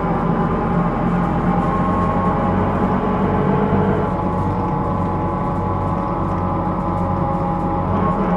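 Running noise inside a Hino Rainbow II (SDG-KR290J1) route bus: the engine and drivetrain run steadily on the road, with a ringing whine of several steady tones over the rumble. This is the abnormal noise that the recording is labelled for.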